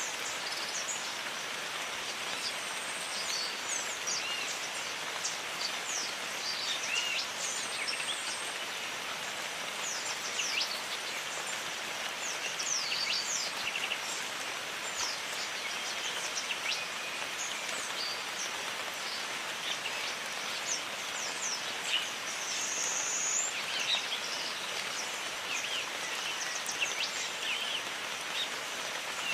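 Jungle ambience: steady rain falling, with many birds chirping and giving short whistled calls throughout.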